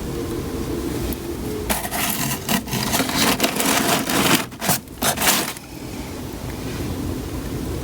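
Rough scraping and rubbing of wood and paper for about four seconds, in several strokes with short breaks near the end, as the fireplace is laid and readied for lighting. Behind it runs a steady rushing background.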